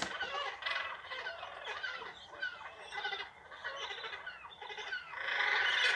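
Penguin calling: a run of short, squeaky chirps that slide up and down in pitch, louder near the end.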